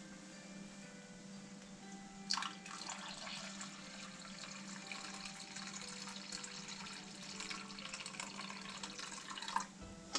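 Fresh goat milk poured through a strainer into a jar: liquid splashing and trickling, starting about two seconds in and stopping near the end, over soft background music.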